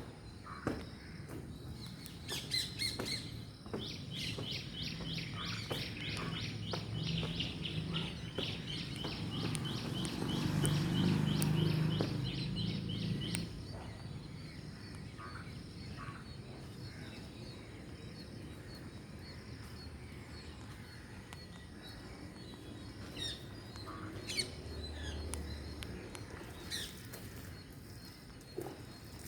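A bird calling a fast, even run of short high chirps, about four a second, for about ten seconds, then a few scattered calls and clicks. A low rumble swells beneath the chirping and fades as it ends.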